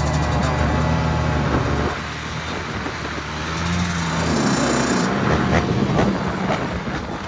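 Dirt bike engine running, easing off about two seconds in, revving up again and then dropping back, with a few sharp knocks near the end.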